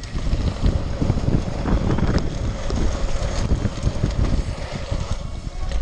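Strong wind buffeting the microphone: a loud, irregular, gusting low rumble.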